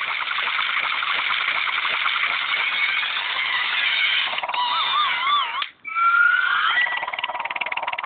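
Cartoon soundtrack full of sound effects: warbling, wavering whistle-like tones and squeals over a noisy background. It cuts out briefly a little before the six-second mark.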